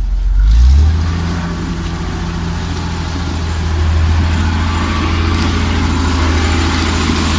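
Heavy diesel truck engine revving up over the first second, then running steady at high revs under load, with a rushing noise that grows louder from about halfway.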